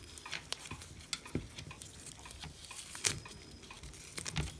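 Scattered light clicks and taps of small parts being handled and taken apart as a component is removed from a hot air rework station, with the sharpest click about three seconds in.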